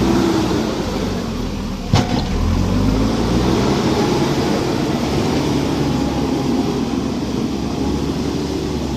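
Heavy earth-moving machine's engine running steadily under load, with one sharp clank about two seconds in.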